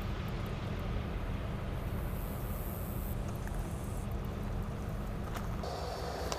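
Low, steady rumble of a Canadian National diesel freight train moving slowly past. Near the end the sound cuts abruptly to a different, brighter background.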